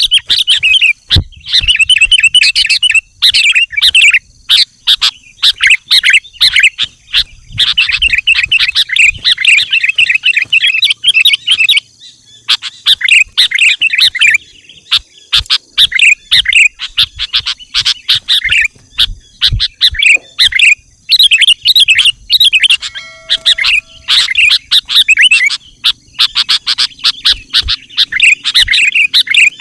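Sooty-headed bulbul (kutilang) calling loudly in fast chattering runs of chirps, broken by short pauses, as a lure call for wild bulbuls.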